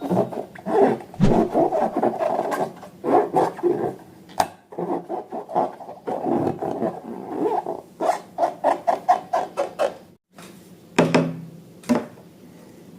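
Slime being worked: rapid, irregular sticky crackles and pops that stop about ten seconds in, followed by two more single squishes.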